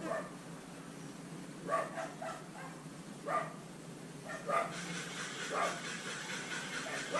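A dog barking several times in short calls.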